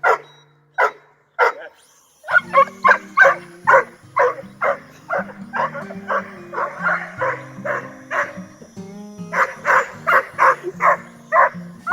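A dog barking and yipping repeatedly, two to three short barks a second, over background music with sustained low notes. The barking pauses briefly early on.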